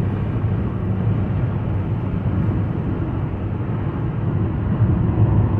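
A car's tyres and wheels droning on the road at highway speed, heard from inside the cabin: a steady low rumble.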